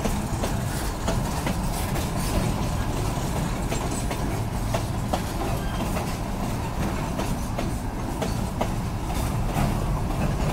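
Empty freight wagons (flatcars and gondolas) rolling past on the rails: a steady rumble of steel wheels on track, with scattered clicks and clanks.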